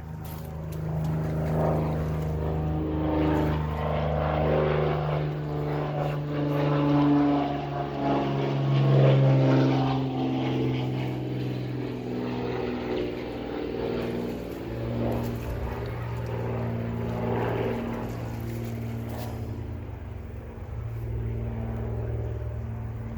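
A motor engine droning past, growing louder toward the middle and then fading, its pitch drifting slowly as it goes.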